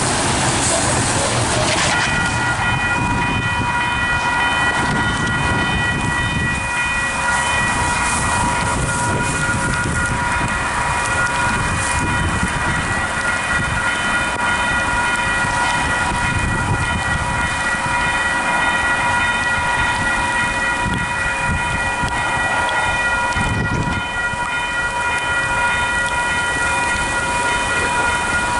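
Freight train led by two DFB-class diesel locomotives passing over a level crossing, with a steady rumble throughout. A steady high ringing tone starts suddenly about two seconds in and holds on.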